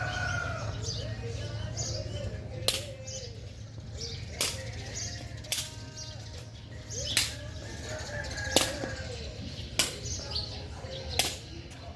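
Seven sharp cracks or slaps spaced about one to one and a half seconds apart, over a steady low rumble with faint distant voices or calls.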